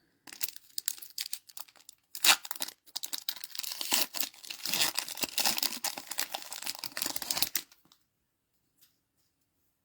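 A Score Dragon Ball Z Saiyan Saga booster pack wrapper being torn open and crinkled: a run of crackling tears and rustles lasting about seven and a half seconds, the sharpest tear early on, then stopping.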